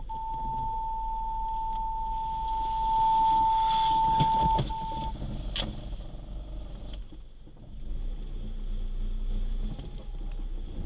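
Car's electronic warning beep: rapid beeping turns into one steady high tone that cuts off about five seconds in, the pattern of a parking sensor warning of a close obstacle. A steady low rumble of the Tata Altroz running underneath, with a few clicks as the tone ends.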